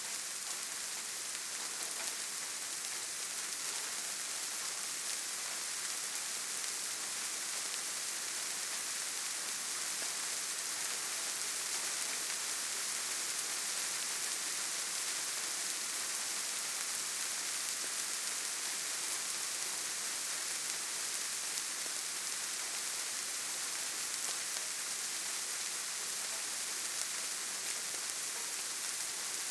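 Steady rainfall: an even, hissing wash of rain with no single drops, thunder or gusts standing out.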